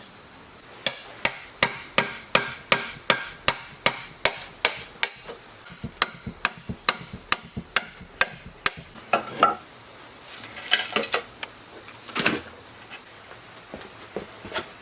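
Hammer striking metal in a steady run of about twenty ringing blows, roughly two to three a second. The blows stop about nine seconds in, followed by a few scattered, lighter knocks.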